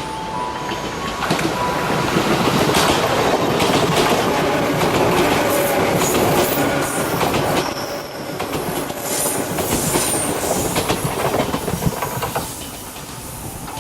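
Izukyu 2100 series Resort 21 electric train passing at speed, its wheels clicking over the rail joints. The rush builds about a second in and dies away near the end.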